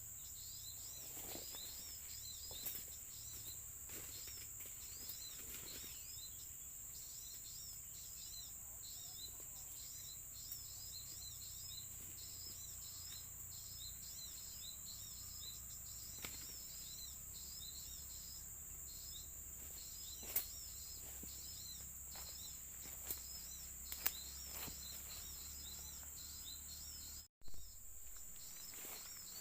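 High, short bird chirps repeating over and over in a steady pattern, over a continuous high insect drone, with a few scattered clicks.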